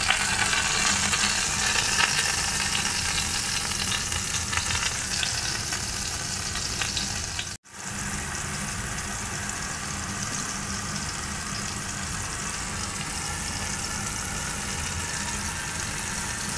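Canola oil sizzling steadily in a frying pan as diced matsutake mushrooms sear gently. The sizzle breaks off for an instant a little before halfway, then carries on slightly quieter.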